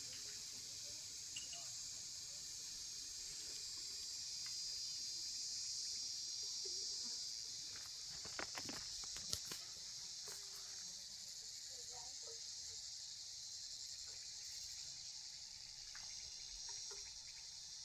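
Steady high-pitched insect chorus, with a few sharp clicks about halfway through.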